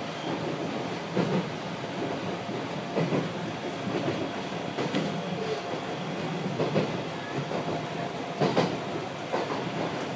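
Ex-Keio Inokashira Line 3000 series electric train running along the track, heard from inside the front car: a steady rumble with the wheels clacking over rail joints about every two seconds.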